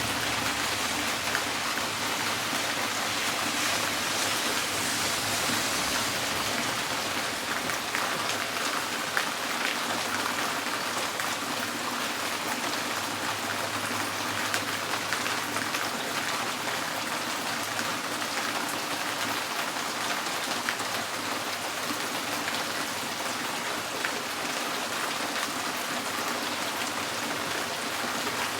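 Steady rain on a tin roof: a dense, even hiss dotted with many small ticks of drops striking the metal.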